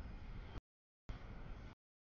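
Double-stack container train rolling past, a low rumble of wheels and cars. The sound comes in chunks of about half a second, broken by complete dropouts in the audio.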